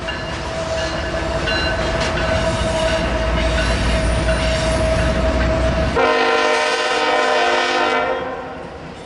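Norfolk Southern diesel freight locomotives, a GE Tier 4 Gevo and an EMD SD70ACE, passing close with a deep engine rumble and a steady whine. About six seconds in the train horn sounds one blast of about two seconds, then the sound fades.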